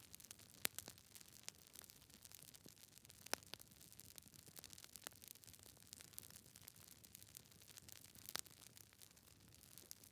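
Log fire crackling in a fireplace: sharp, irregular pops and snaps over a faint hiss, the loudest pops under a second in and about three seconds in.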